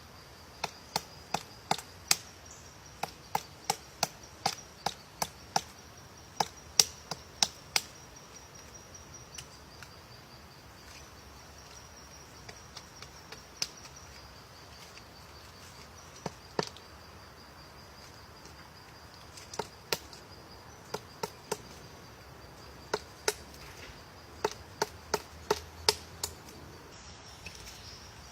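Woodpecker pecking at wood: single sharp knocks, about two a second in bouts, with a long sparse stretch in the middle, rather than a fast drumming roll. A steady high insect trill runs behind.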